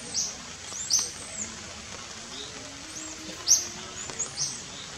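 Small birds chirping: short high notes roughly once a second, loudest about three and a half seconds in, with thin arching whistles between them over a steady background hiss.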